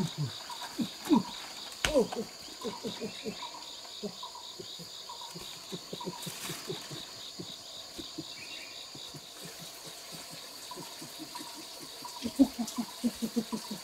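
Steady, pulsing high insect trill with many short, falling animal calls over it, bunched in quick runs about a second in and again near the end.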